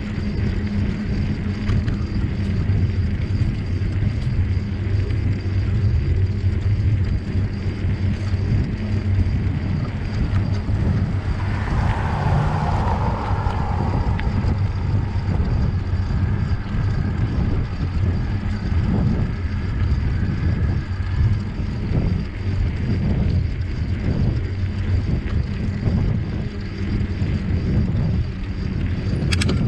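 Steady low rumble of riding along a forest trail, with wind on the microphone, and a brief higher-pitched sound about twelve seconds in.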